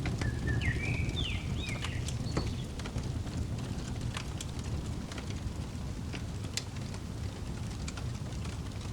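Fireplace crackling: scattered sharp snaps and pops over a steady low rumble of burning logs. A bird gives a short run of chirps near the start.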